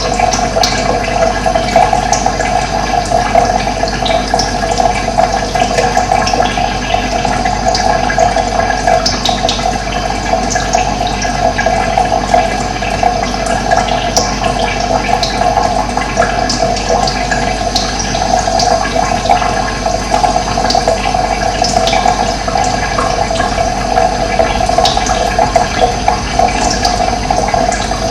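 Running water rushing and gurgling steadily, with birds chirping briefly now and then over it.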